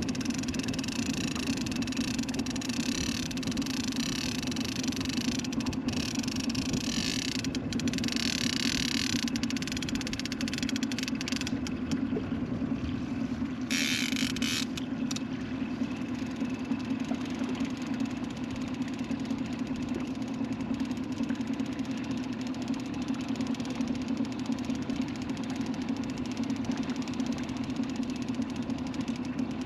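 Boat motor running steadily at trolling speed, a constant low drone. A hiss rides over it for roughly the first ten seconds, with a short burst of hiss about 14 seconds in.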